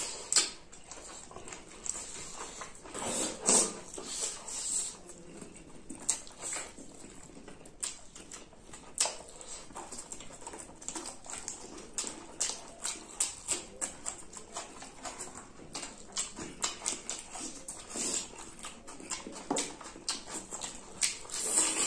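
Close-up eating sounds of two people eating chicken and rice by hand: a steady run of wet chewing and lip-smacking clicks, with a few louder smacks about three seconds in and near the end.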